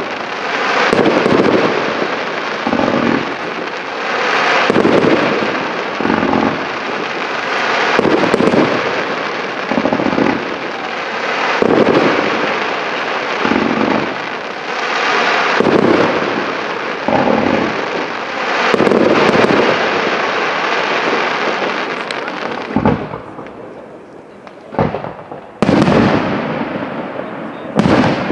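Professional fireworks display: a rapid run of shots and bursts, about one every second or two, over a steady crackling hiss. It thins out about 23 seconds in, then a few sharp single bangs near the end.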